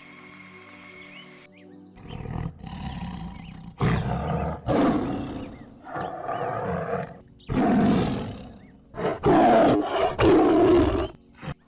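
A large animal roaring in a series of about nine loud, rough calls. The first calls last about a second each; the last few are shorter and come closer together.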